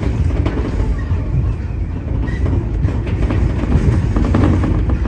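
Tobu 30000 series electric train running on the line, heard from inside the leading car: a steady low rumble of running noise, with clicks from the wheels passing over rail joints.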